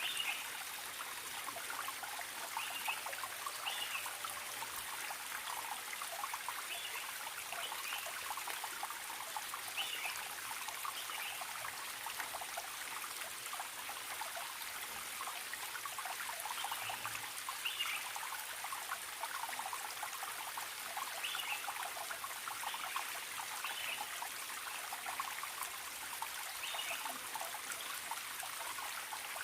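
A forest stream trickling and babbling steadily, with short, high wild-bird chirps repeating every second or two over it.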